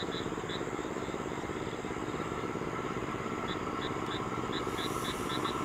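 ICF-built electric multiple unit (EMU) train approaching on the rails: a steady low rumble that swells slightly toward the end. A faint high chirp repeats about three times a second, stops for a few seconds, then returns.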